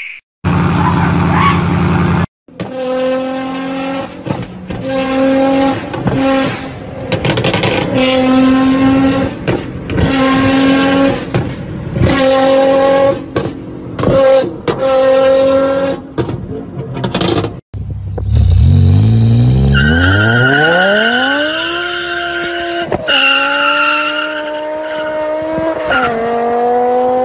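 Sports car engines at high revs. First comes a series of short revs, each held at much the same pitch, about one a second. Then comes a long rising engine note as a car accelerates hard through its gears, with a shift near the end.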